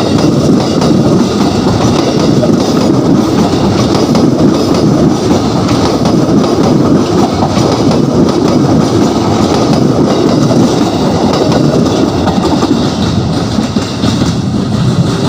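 A train running past, a loud steady noise that keeps on without a break.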